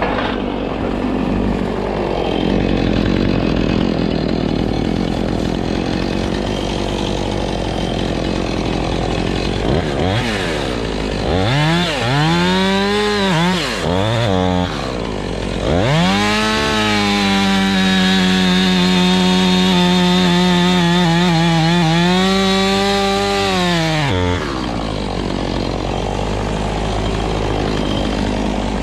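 Chainsaw running, then revved in a few short blips about ten seconds in. It is then held at high revs for about eight seconds before dropping back down.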